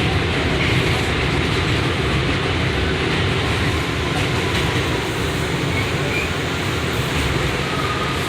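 Steady rumble and hiss inside an R179 subway car on the J line.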